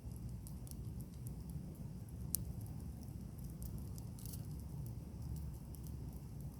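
Wood bonfire crackling: scattered small snaps and pops, with one louder pop about two seconds in, over a low steady rumble.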